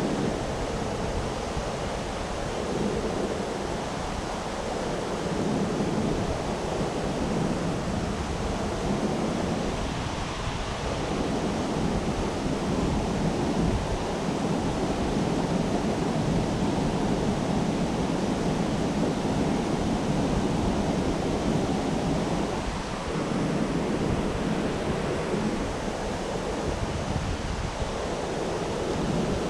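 Steady rush of a river in flood, its current running high and turned to whitewater, with slow swells in level.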